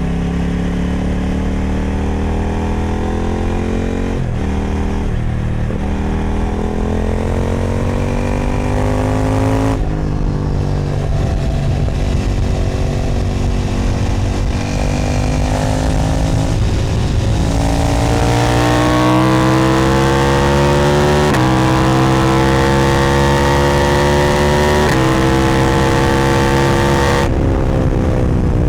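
KTM Duke 990's twin-cylinder engine through an Austin Racing aftermarket exhaust, accelerating hard up through the gears: the note rises in pitch, drops briefly at each of several upshifts, then climbs again. It gets louder in the last third, and the throttle closes shortly before the end.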